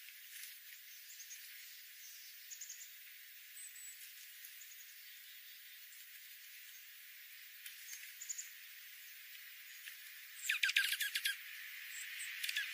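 Wild birds calling: faint scattered short chirps, then, about ten seconds in, a loud harsh rapid chattering call lasting under a second.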